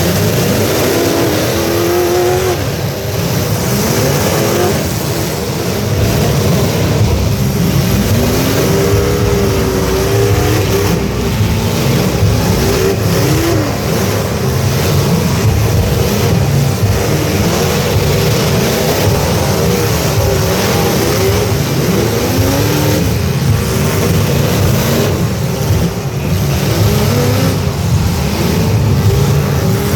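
Several demolition-derby truck engines running hard and revving over and over, their pitch repeatedly rising and falling on top of one another over a constant low rumble.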